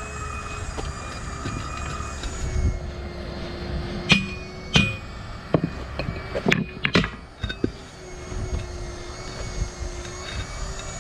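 Steel tire irons clanking and scraping against a steel truck rim while the tire bead is pried over the rim lip, with a handful of sharp metal clanks in the middle, over a steady low hum.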